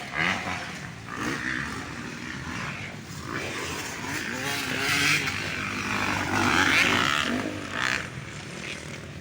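Motocross dirt bike engines revving up and down as they race by, rising and falling in pitch over and over, loudest about five to seven seconds in.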